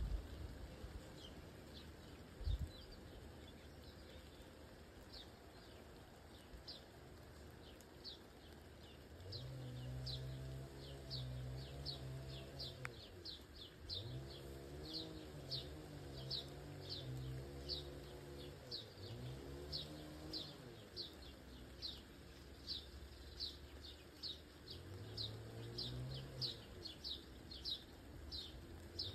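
A bird repeatedly calling short, high, downward chirps, about one and a half a second, on and on. A low wavering hum comes in about nine seconds in and fades in and out, and there is a single knock near the start.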